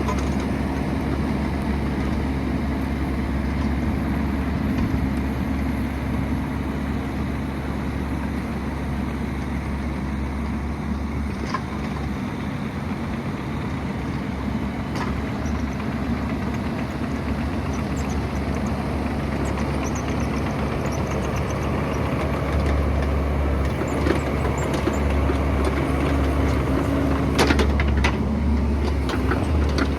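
Excavator's diesel engine running steadily with a low hum that swells a little in the second half. There are a few sharp knocks, the loudest near the end.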